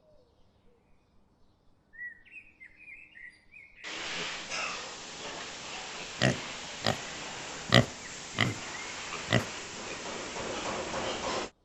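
Brief bird chirps, then a louder animal call sequence over a steady noisy background, with five short, sharp calls about half a second to a second apart; it cuts off suddenly near the end.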